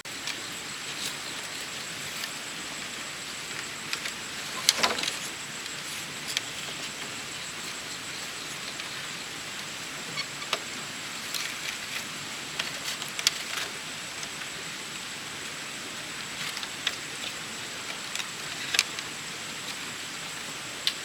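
Scattered light knocks and clicks at irregular intervals, the loudest cluster about five seconds in, over a steady rushing hiss with a thin high whine.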